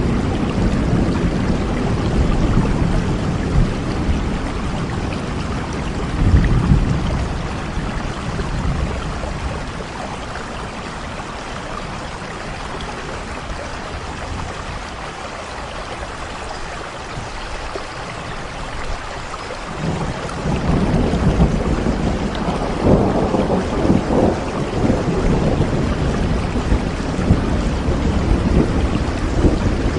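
Steady soft rain with low rolling thunder. The rumble dies down through the middle and swells again about twenty seconds in.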